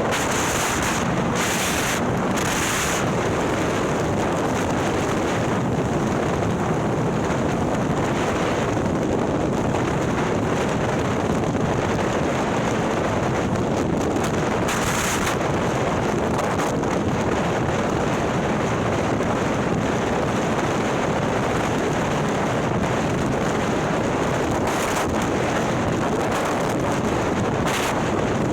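Steady wind rushing over the microphone of a 130 ci Milwaukee-Eight Harley-Davidson touring bike riding at speed, with engine and road noise underneath. Brief brighter gusts of hiss come near the start, about halfway through, and near the end.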